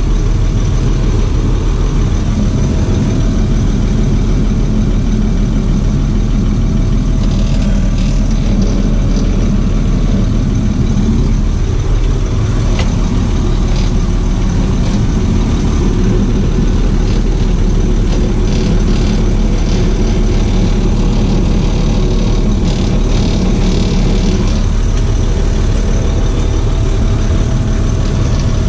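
Box truck engine running steadily at low speed, a continuous low drone. Scattered light clicks and rattles come and go from about seven seconds in.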